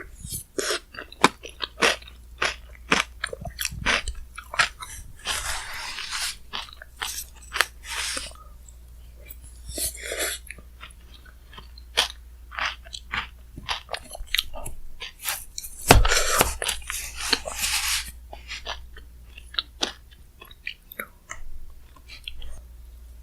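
Close-miked eating sounds: a mouth chewing and crunching spoonfuls of shaved-ice bingsu topped with Chic Choc chocolate cookies, with many sharp crunchy clicks and a few longer grinding crunches.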